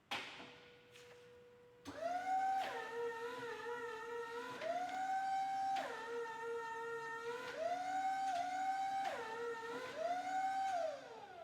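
Electric motor whine from a Raymond swing reach truck. The pitch steps up and down between two levels several times as the motor speeds up and slows, then glides down as it winds down near the end. A click sounds at the very start.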